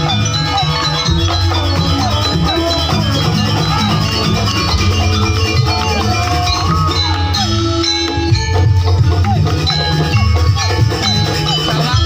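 Jaranan dance music, a gamelan-style ensemble: a steady low drum and gong beat under struck metal percussion, with a melody line that bends up and down in pitch.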